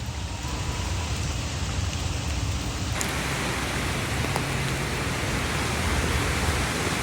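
Steady rain falling, with a low rumble underneath; the rain noise gets brighter and a little louder about three seconds in.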